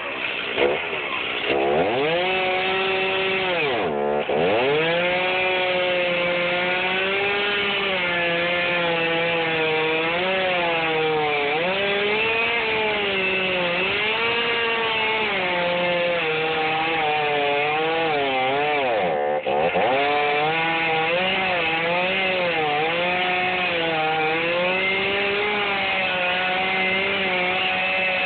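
Chainsaw running under load while cutting into a felled sycamore log, its engine pitch wavering up and down as it works through the wood. The pitch drops sharply and recovers twice, at about four and about nineteen seconds in.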